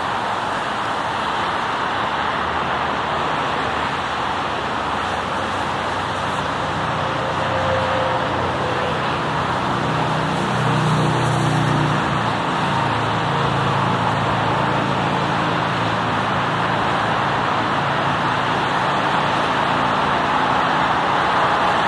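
Steady roar of road traffic, swelling slightly about halfway through.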